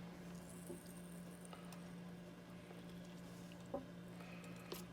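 Faint handling sounds of a marinade injector being pushed into a raw turkey: soft squishes and a couple of small clicks near the end, over a steady low hum.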